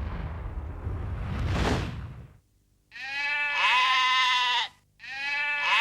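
A swishing whoosh for about two seconds, then two long farm-animal calls, one after the other.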